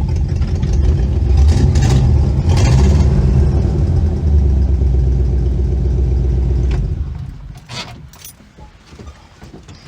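A 1962 Chevy Impala's 283 small-block V8 running, then switched off about seven seconds in, followed by a few light clicks.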